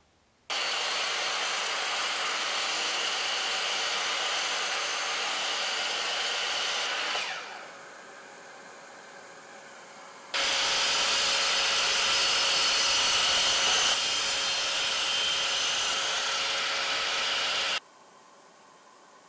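Makita DXT sliding compound miter saw running while crosscutting a hardwood board. It starts abruptly and runs steadily, winds down about seven seconds in, and after a quieter stretch starts again and runs louder until it cuts off sharply near the end.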